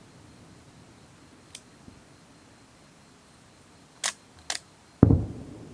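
A fireworks shell bursting: one sudden low boom about five seconds in that trails off, a moment after two sharp clicks.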